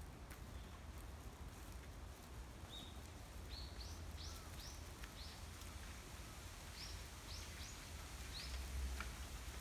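Wind rumbling low on the microphone, with a small bird giving about ten short, high chirps, each quickly rising and falling, from about three seconds in.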